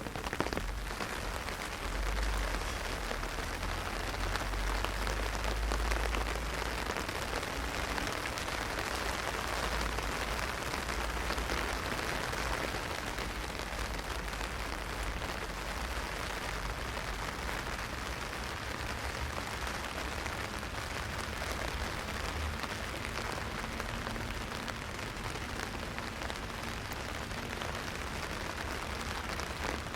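Heavy rain drumming on an umbrella overhead, a dense steady hiss of drops. A low rumble sits under it for the first several seconds.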